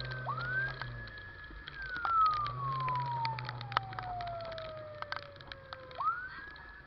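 Emergency siren wailing: it climbs quickly to a high pitch, holds it briefly, then sinks slowly for several seconds before climbing again near the end. Scattered sharp clicks and a low steady hum sit underneath.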